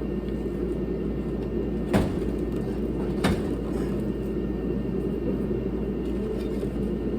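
Steady running hum of a space heater, with two sharp knocks about two and three seconds in.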